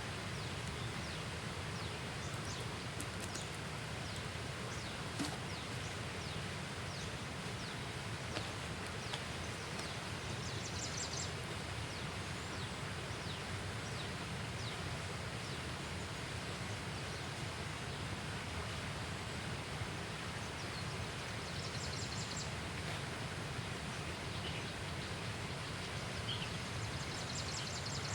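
Outdoor ambience: a steady noisy background with many short, high bird chirps scattered through it, and a brief high trill heard three times.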